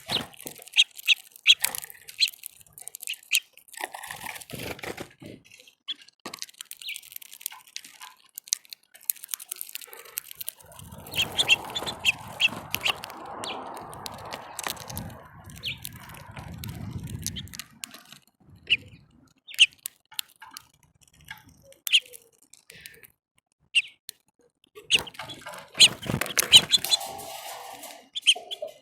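Small songbirds chirping at a backyard feeder, many short high chirps coming in quick clusters. About halfway through, a low rumbling noise runs for several seconds under the chirps.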